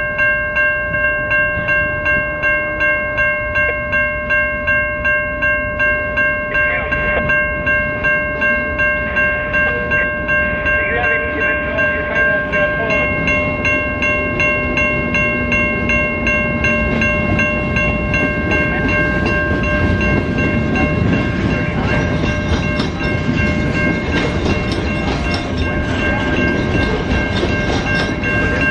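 Level-crossing warning bell ringing steadily at about two strokes a second. Under it, a passing train's wheels rumble and clatter on the rails, growing louder in the second half.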